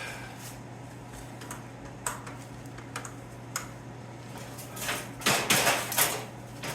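Hard metal-on-metal handling: a few light ticks and taps, then a brief burst of scraping and clanking about five seconds in, over a steady low hum.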